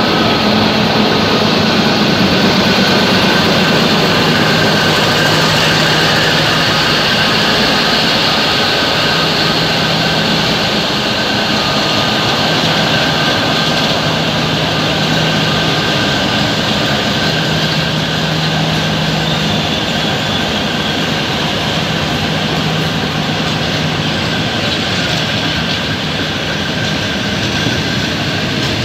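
A train hauled by an Alsthom diesel-electric locomotive rolls slowly past: the locomotive's engine hums as it goes by at first, then a long run of passenger carriages passes with steady wheel-on-rail rumble.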